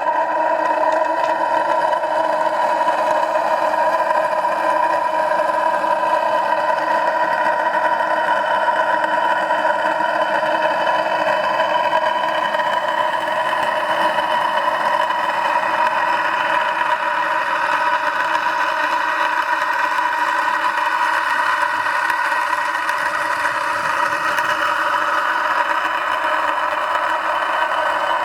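An engine-driven vacuum pump running steadily, with an unchanging hum and a strong high tone.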